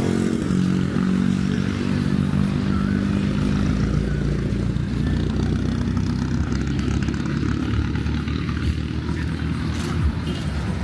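A motor vehicle engine running close by with a steady low hum.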